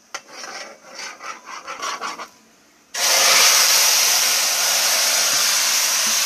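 Irregular scraping in a pot, then about three seconds in a sudden loud, steady sizzle as chicken goes into hot oil and browned sugar, the searing stage of Caribbean stew chicken.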